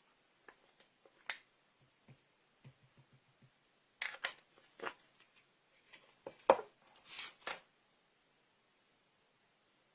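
Stamping supplies being handled on a craft table: a few light clicks, then from about four seconds in a cluster of sharper taps and clacks, the loudest a little before the end of the cluster.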